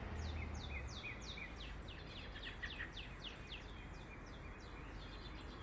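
A songbird singing a long run of short, steeply falling notes, a few a second, over a faint steady low background rumble.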